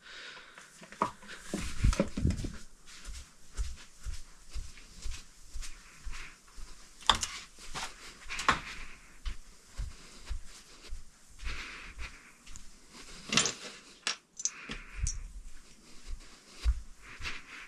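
Irregular handling noises: soft low knocks and taps throughout, several sharper clicks, and brief stretches of rustling, as small parts and hardware are moved about by hand.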